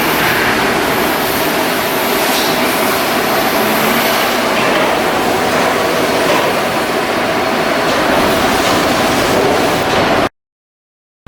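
Loud, steady machinery noise from shipbuilding work, cutting off abruptly into silence about ten seconds in.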